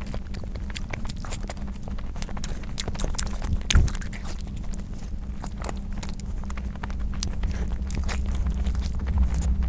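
Close-miked eating: chewing and wet mouth clicks and smacks while eating biryani and curry, with a steady low hum beneath. There is a louder thump a little under four seconds in.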